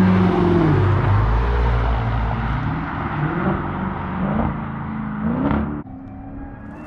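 Supercharged 6.2-litre Hemi V8 of a Dodge Charger Hellcat Redeye with the mid mufflers deleted, going by loud with its pitch falling. It then gives three short rising revs, about a second apart, as it downshifts, and the sound drops off abruptly near the end.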